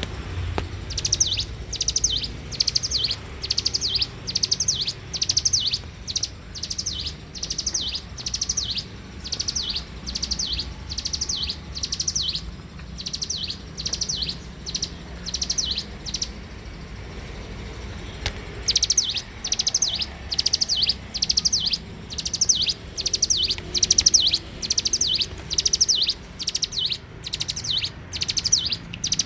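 Ciblek gunung (a prinia) singing steadily: short, high, rapidly trilled phrases repeated about one and a half times a second, broken by a pause of about two seconds just past the middle.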